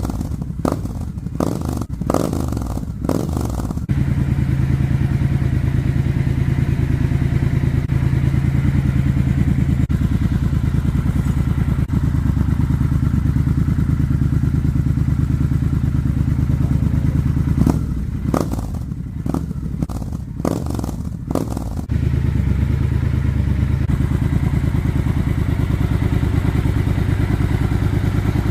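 Triumph Scrambler 1200 X's 1200 cc parallel-twin running through a Zard slip-on exhaust: a steady, deep idle, with a string of quick throttle blips in the first few seconds and another about two-thirds of the way through.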